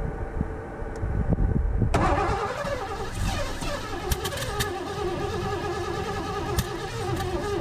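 1984 Ford LTD Crown Victoria's CFI V8 cranking on the starter without firing: a low churning first, then a steady starter whine from about two seconds in. It is a no-start that the owner puts down to the fuel injectors not injecting fuel.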